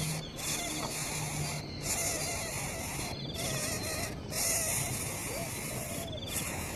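Dense insect chorus with a high, even hiss that breaks off briefly every second or two. A short rapid trill comes three times, about three seconds apart.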